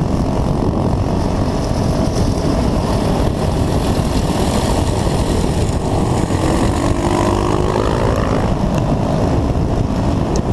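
Dirt bike engine running, with a dense low noise throughout. About seven seconds in its pitch rises as the throttle is opened.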